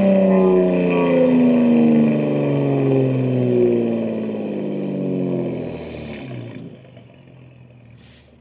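BMW M2 G87's S58 twin-turbo inline-six with catless downpipes, its exhaust note falling steadily in pitch as the revs drop for about six seconds, then fading quickly to a much quieter level.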